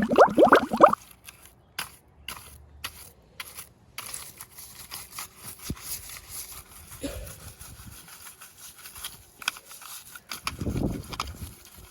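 Water gushing and splashing in a short, loud run that stops about a second in. Then faint small clicks and scraping from handling.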